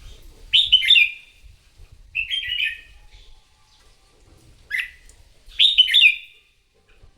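Red-whiskered bulbul singing its loud fighting song: four short, clear, warbling phrases with brief pauses between them.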